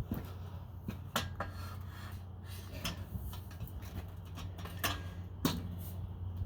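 A few sharp knocks and clatters of things being handled and set down, over a steady low hum.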